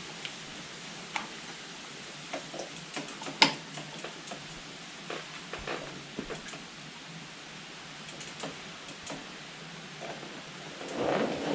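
Scattered small clicks and taps of hand tools working on motorcycle handlebar fittings, with one sharper click about three and a half seconds in and a quick run of light ticks later; handling noise rises near the end.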